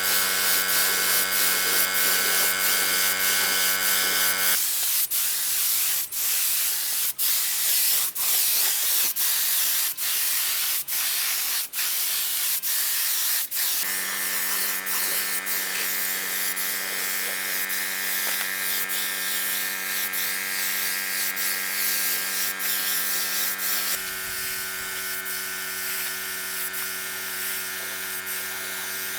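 A small electric power tool motor running at a steady pitch. About four and a half seconds in it gives way to a hissing noise broken by short gaps, then runs steadily again from about the middle, its tone shifting slightly near the end.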